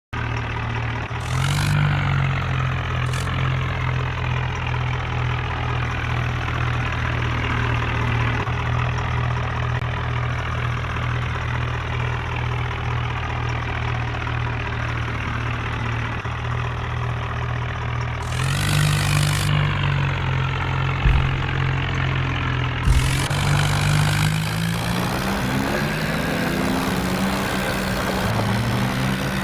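Swaraj tractor's diesel engine idling steadily, with brief rises in revs near the start and again a little past halfway. Two sharp knocks come shortly after, then the engine revs up in steps over the last few seconds.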